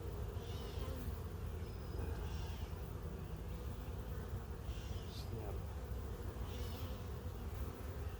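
Honey bees buzzing around an open hive during an inspection: a steady, low droning hum.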